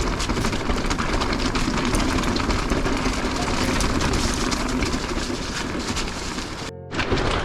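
Mountain bike tyres rolling and crunching over loose, jagged rocks, with a steady stream of small clicks and rattles from the bike over the rough ground. The sound drops out for a split second near the end.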